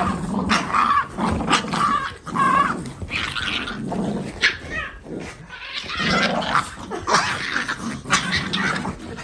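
A French bulldog puppy and a Boston terrier growling in play while tugging on a rope toy, with short higher-pitched yelps mixed in among the rough growls.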